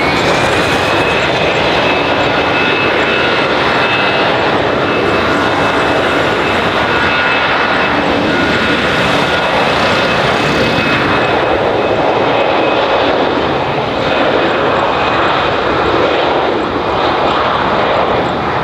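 Airbus A320 jet engines at high power on a departing airliner: a loud, steady jet noise with a high whine that rises in the first second, then holds steady.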